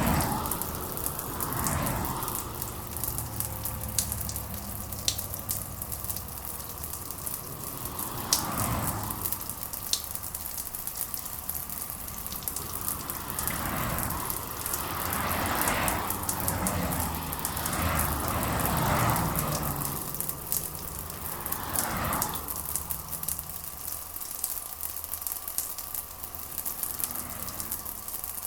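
Steady rain falling, with crackling drops and drips, and several soft swells of sound that rise and fade every few seconds.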